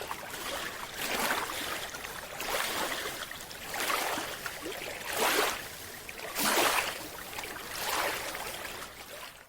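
Rushing, sloshing water coming in regular surges, about one every second and a half.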